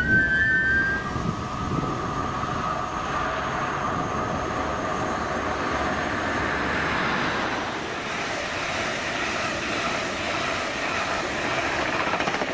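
Electric train running through a station: a continuous rumble of wheels on rail with a steady whine from the traction equipment.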